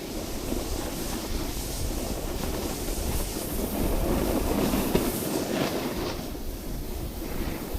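Snowboard running down a slope, its base and edges scraping over the snow in a continuous rough rumble, with wind buffeting the microphone.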